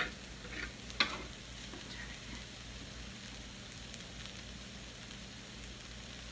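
Chicken and onions sizzling steadily in a frying pan, with two sharp knocks of a utensil against the pan in the first second or so.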